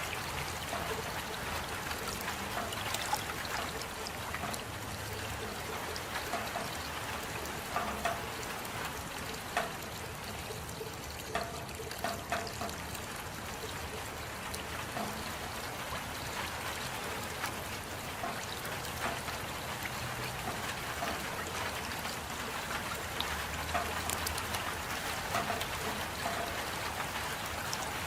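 Steady rain with trickling water and scattered individual drops ticking through it.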